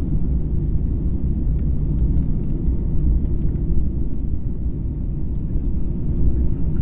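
Passenger airliner cabin in flight: a steady low drone from the engines and the air rushing past the fuselage, with a few faint clicks in the first half.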